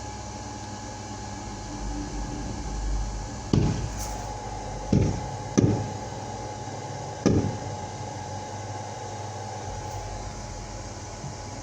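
Fireworks going off: four booms in about four seconds, each with a short rumbling tail, over a steady background hum.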